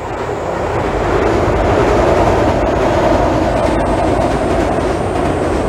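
223 series 5500 electric train crossing a steel girder railway bridge: a steady running rumble of wheels on rails, swelling over the first second or so and then holding.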